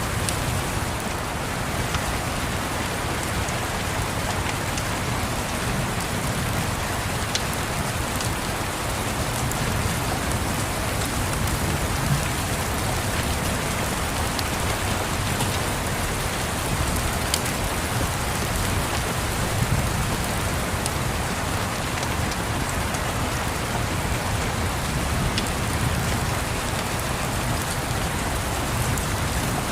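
Steady rain on a surface, with scattered small crackles and pops from a wood fire in a fireplace, over a low steady rumble.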